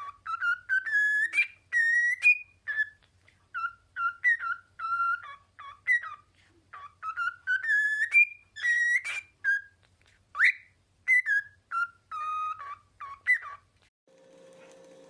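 A pet parrot whistling a tune: a long run of short, clear whistled notes rising and falling in pitch, with brief pauses between phrases. The whistling stops about a second before the end, when a steady low hum comes in.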